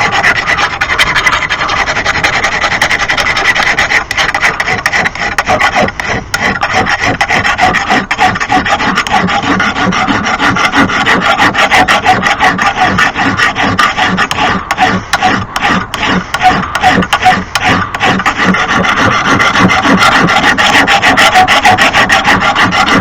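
Hand file sharpening the steel edge of a lawn mower blade in rapid back-and-forth strokes, with a steady rasping rhythm that stops abruptly at the end.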